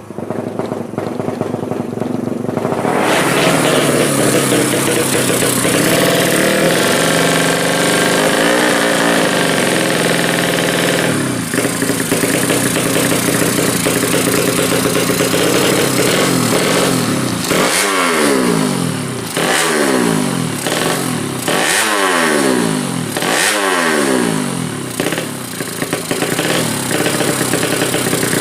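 Yamaha Jupiter four-stroke engine in a high-compression drag-race build, running loud and revving. About two-thirds of the way in, a run of quick throttle blips each rises and falls back.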